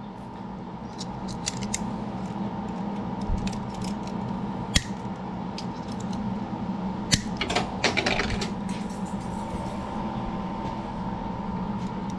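Small metal clicks and clinks of a washer being worked into place over a broken tensioner bolt stub, with one sharp click about five seconds in and a flurry of clinks a little later. A steady hum runs underneath.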